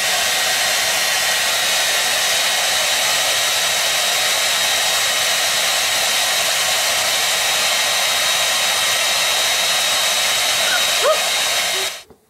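Handheld hair dryer running steadily: an even rush of air with a thin whine, cutting off abruptly just before the end.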